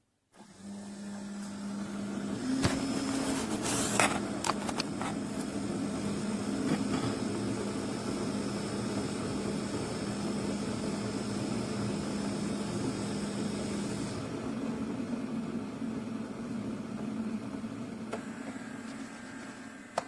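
Keurig K-Classic pod coffee maker running a brew: a steady mechanical hum with a constant low tone under a hiss. A few sharp clicks come about three to five seconds in, and the hiss eases off about two-thirds of the way through.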